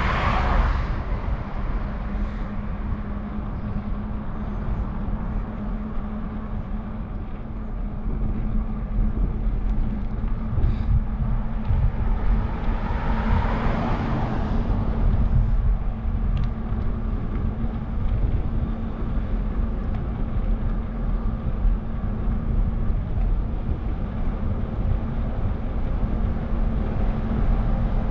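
Wind rumbling on a bike-mounted camera's microphone while cycling through traffic. A car passes right at the start, and another swells and fades about 13 seconds in.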